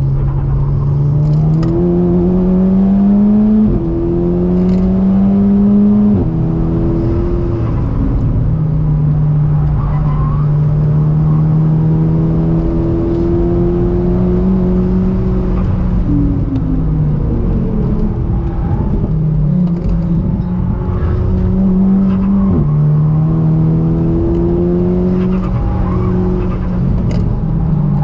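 Volkswagen Golf R (Mk6) turbocharged four-cylinder engine under hard acceleration, its note climbing and dropping sharply at upshifts about 4 and 6 seconds in, then a long pull. In the middle the pitch wavers up and down as the throttle is eased and the car slows, before it climbs again with another upshift about two-thirds of the way through.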